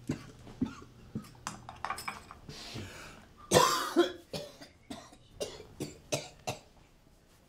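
An elderly man coughing: one loud cough about halfway through, then several smaller ones, with short soft knocks around them.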